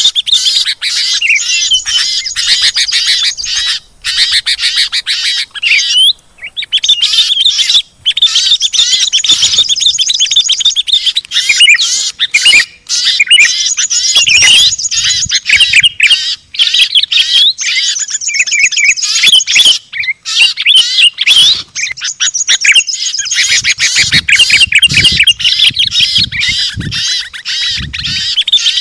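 Loud, dense chorus of many small songbirds chirping and trilling at once: a mixed-species bird-lure recording of noisy, agitated birds. It breaks off for a split second a few times.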